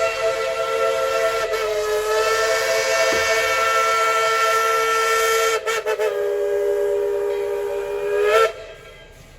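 Tweetsie Railroad #12's steam whistle blowing one long blast that sounds as a chord of several notes. It breaks briefly a little past the middle, sounds again, and cuts off sharply with a slight upward bend about a second before the end.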